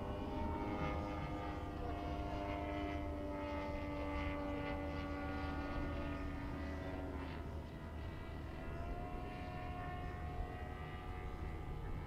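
Gas engine and propeller of a giant-scale R/C Yak-54 aerobatic model plane in flight. The engine note sinks slowly for about seven seconds, drops away, then comes back steady a second or so later.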